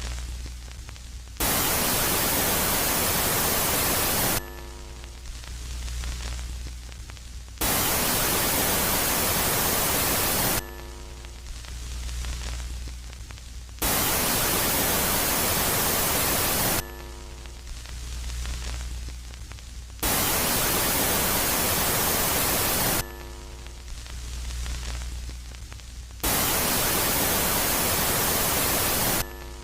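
Synthetic space-sound rendering presented as the sound of Jupiter's moon Megaclite: loud, even static hiss alternating about every three seconds with a quieter phase of low hum and faint steady tones, five loud bursts in all.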